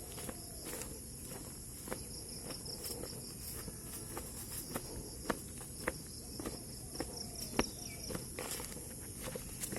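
Insects chirping outdoors, a rapid pulsed high trill running for several seconds in the middle over a steady high hiss, with scattered sharp clicks.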